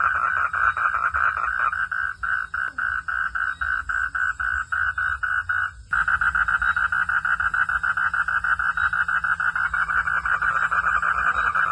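Frogs calling in a chorus of rapid, pulsed croaks. A couple of seconds in, the chorus thins to a single caller pulsing about four times a second, then at about six seconds the dense chorus cuts back in suddenly.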